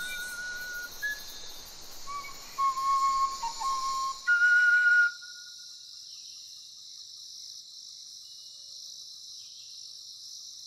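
Steady high-pitched drone of insects, with several clear whistled notes in the first five seconds, the loudest a held note about four and a half seconds in.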